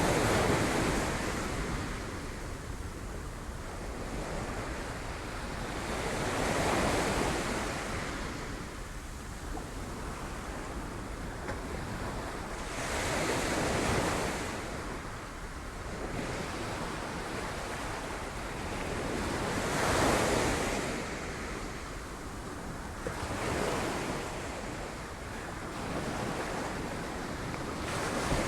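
Sea waves breaking on rocks, a surge of surf washing in about every six or seven seconds over a steady low rumble.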